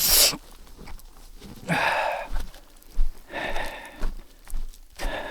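A man breathing hard in loud, rough breaths, about four in all, roughly one every one and a half to two seconds: out of breath from exertion.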